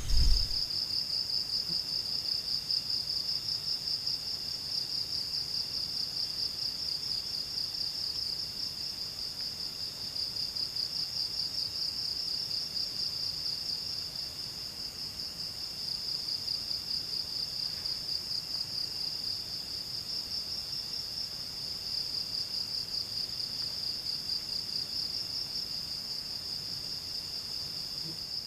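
Insects calling in a continuous high-pitched trill made of fast, even pulses. A fainter, slightly lower trill keeps starting and stopping beneath it.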